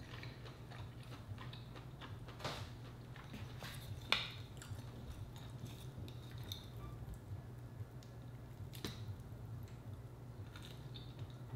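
Quiet chewing and mouth sounds, with a few sharp clicks as a mussel is pried from its shell by hand, the loudest about four seconds in. A low steady hum runs underneath.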